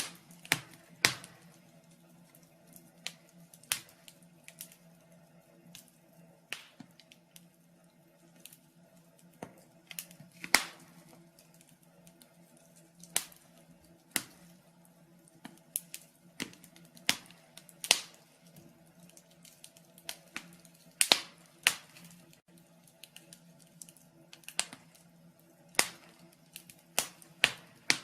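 Wood fire crackling in a fireplace: irregular sharp pops and snaps, one to a few a second, some louder than others.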